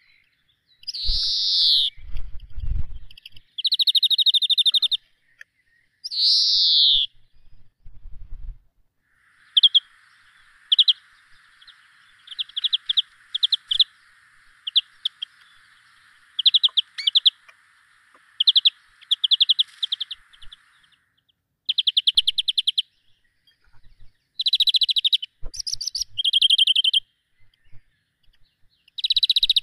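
Small birds singing and calling: long high whistles that fall in pitch, fast buzzy trills and many short chirps, with a couple of low knocks about two and eight seconds in.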